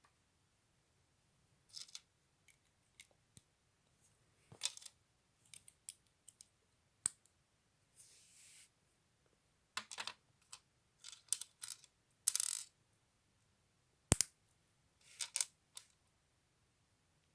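Small plastic LEGO pieces clicking and rattling as they are handled and snapped together, in irregular short bursts with a few single sharp clicks.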